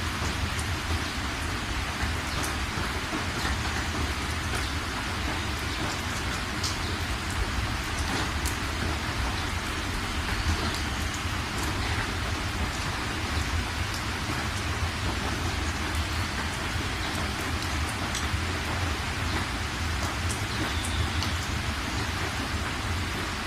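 Steady rain falling, with individual drops ticking sharply over an even hiss and a constant low rumble underneath.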